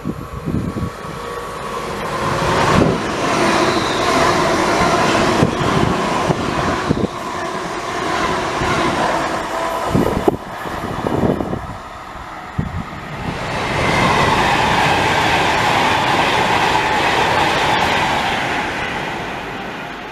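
Train passing on the main line: loud wheel-on-rail noise with clickety-clack over the rail joints. It builds a couple of seconds in, eases, then swells again with a steady high whine before fading near the end.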